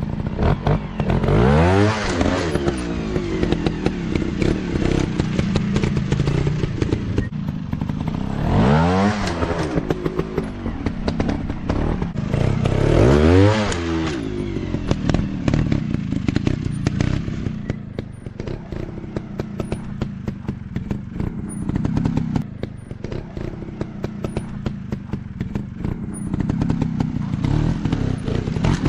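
Dirt bike engine running, revved up and back down three times with the pitch rising and falling each time, with an uneven, clattering running note in between.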